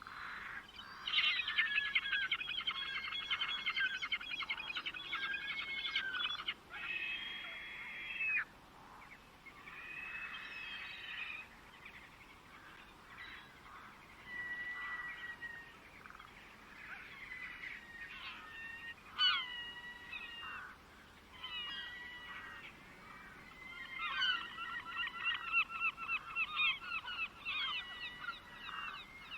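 Birds calling: rapid chattering calls in dense bursts, loudest in the first few seconds and again near the end, with shorter whistled notes and pitch glides in between.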